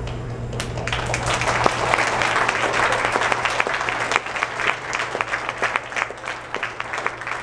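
Audience applauding: the clapping swells about a second in, then thins to scattered separate claps near the end. A steady low hum sits underneath.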